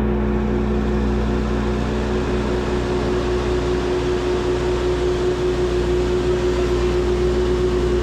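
Engine of a piece of heavy equipment running steadily at constant speed, a low rumble with a steady whine over it.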